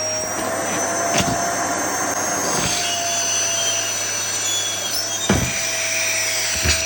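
Vacuum cleaner running steadily, its motor giving a constant whine over the rush of air, with a few short knocks along the way.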